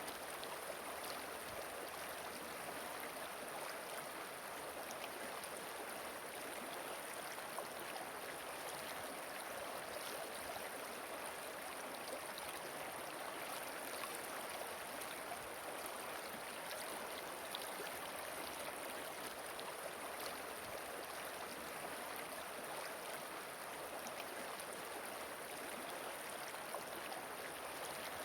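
A gently flowing river: a steady, even rush of water.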